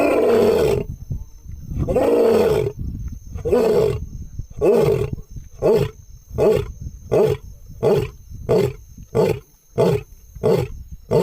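Asiatic lion roaring: two long full roars near the start, then a run of shorter grunting roars that come shorter and quicker, about one every two-thirds of a second by the end.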